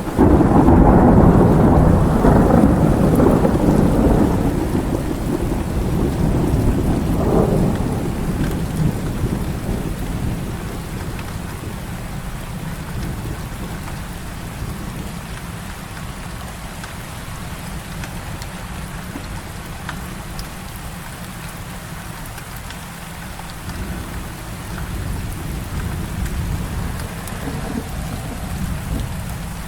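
Heavy rain falling steadily while a loud roll of thunder breaks in suddenly at the start and rumbles away over about ten seconds; a fainter low rumble swells again near the end.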